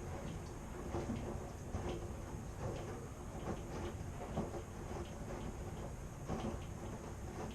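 Washing machine running through a wash cycle: a steady low hum with soft knocks about once a second as the drum turns and the laundry tumbles.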